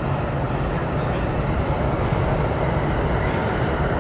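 Steady rumble of an MTR East Rail Line R-Train running, heard inside the passenger car.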